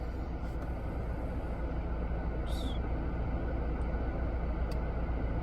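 Steady low rumble of a car, heard from inside the cabin, with a short rustle about two and a half seconds in and a faint click near the end.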